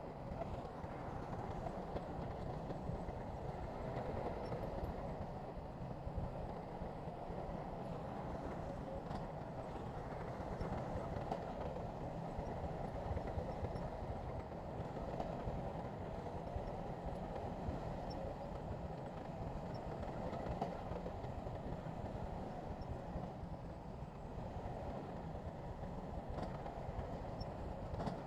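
Bulldozer's diesel engine running steadily under work, with faint clanks now and then.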